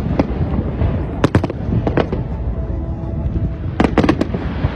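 New Year countdown fireworks going off in quick clusters of sharp bangs and crackles, the biggest cluster near the end, over a steady low rumble.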